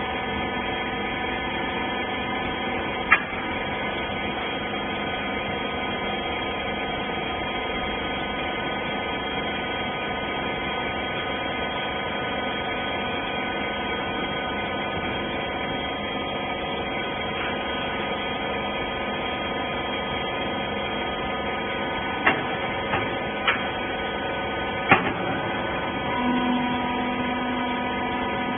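Wiper baler's hydraulic power unit running with a steady hum, broken by a few sharp clicks; a lower steady tone joins near the end.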